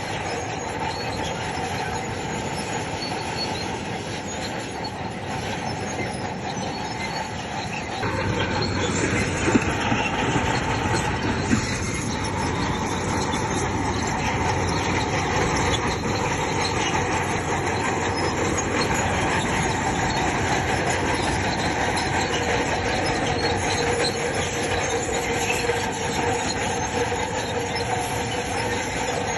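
Crawler bulldozer working, its steel tracks squealing and clanking over the engine's steady running. The noise gets louder about a third of the way in, with a couple of sharp knocks soon after.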